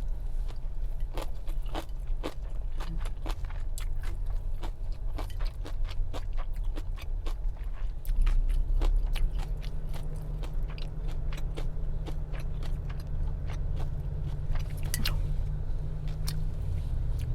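Close-miked chewing and biting of food, with frequent wet mouth clicks, over the steady low hum of a car.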